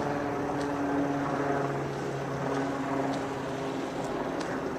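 A motor engine running steadily, a low droning hum whose pitch drifts slightly.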